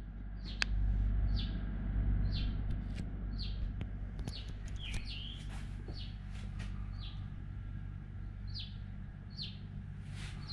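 A bird chirping over and over, short high calls about once a second, over a steady low rumble.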